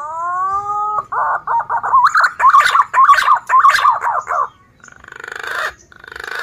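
Male punai daun green pigeon singing. It gives one long whistle, then a fast run of warbling whistled notes, and ends with two short rough, buzzy notes.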